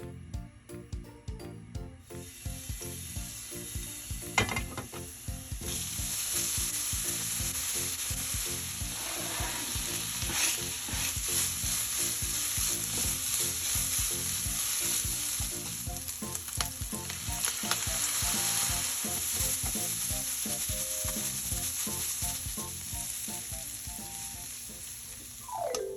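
Minced pork and vegetables sizzling in a frying pan as they are stirred. The sizzle starts about two seconds in and grows louder a few seconds later, with a sharp clink near the start.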